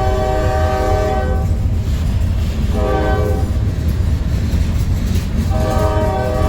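Locomotive air horn sounding a chord: a long blast that ends about a second and a half in, a short blast about three seconds in, then another long blast starting near the end, over the steady low rumble of the train.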